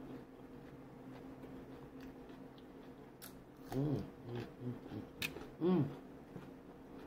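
Close-up biting and chewing of a raw cucumber stick. There are crisp crunches from about three seconds in, and two short hummed "mm" sounds.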